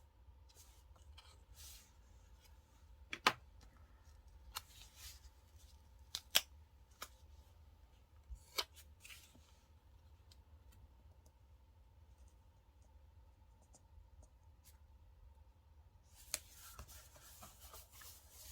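Scissors snipping paper: several sharp snips in the first half, a quiet stretch, then paper rustling with another snip near the end.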